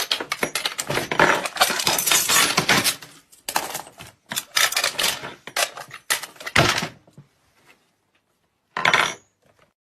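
Rapid clattering and clinking of hard objects knocking together in dense runs that break off about seven seconds in, then one short burst of clatter near the end.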